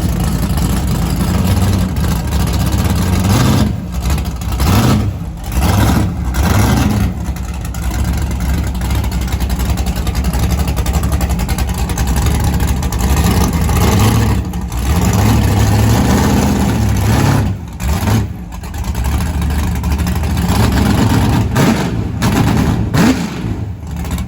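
Car engine being revved hard and held at high revs, with the throttle let off briefly several times before it climbs again.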